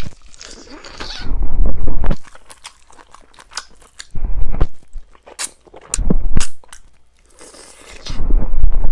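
Close-miked chewing and crunching on chicken bones and meat, in several loud bouts with sharp cracks between them.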